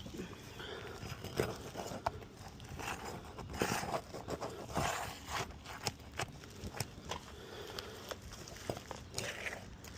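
Irregular scrapes, taps and crunches of hands and tools working at asphalt roof shingles, with footsteps on the roof, louder a few times in the middle.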